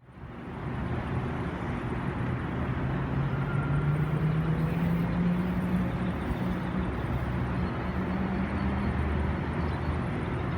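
Diesel train engine running with a steady low rumble, its drone rising slightly in pitch about three seconds in and then holding.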